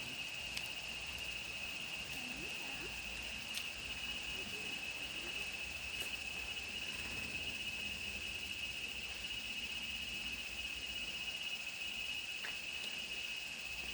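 Steady chorus of insects: one high, unbroken buzz that holds the same pitch throughout, with a few faint ticks scattered through it.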